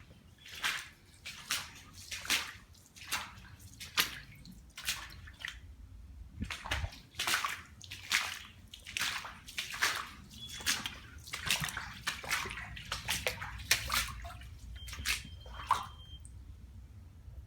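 Water sloshing in a steady series of short splashes, about one every 0.8 seconds, ending about sixteen seconds in.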